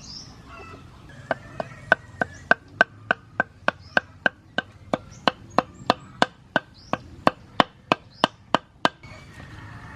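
A fast, steady run of chopping strikes on wood, about three a second, starting a little over a second in and stopping near the end.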